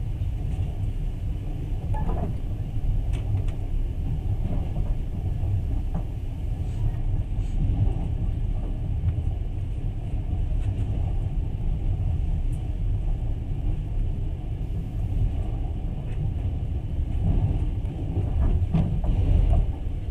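Passenger train running along the track, heard from inside the carriage: a steady low rumble of wheels on rails with a few faint clicks and knocks.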